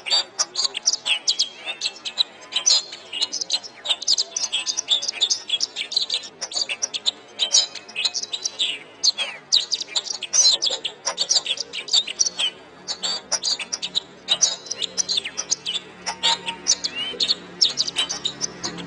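Domestic canary singing a long, fast unbroken string of high chirps and trills. A faint low drone comes in underneath over the last few seconds.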